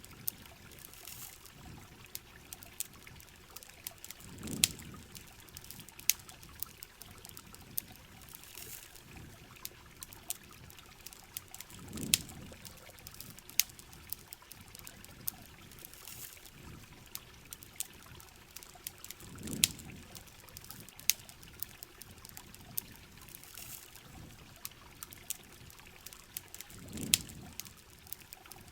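Heavy rain falling steadily, with the sharp crackles and pops of a campfire scattered through it. A low swell rises and fades about every seven and a half seconds.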